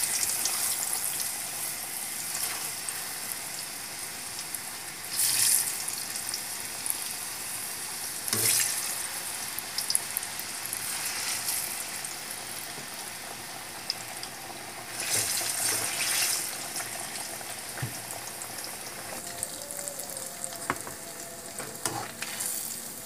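Kepok banana pieces deep-frying in hot oil: a steady sizzling hiss that flares up louder several times.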